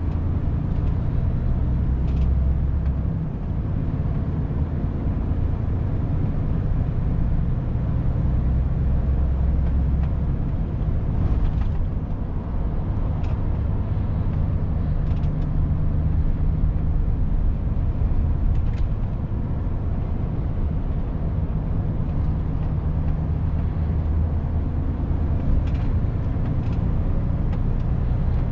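Volvo FH 500 truck's 13-litre straight-six diesel running under way, a steady low drone whose pitch shifts now and then. Short faint clicks come through a few times.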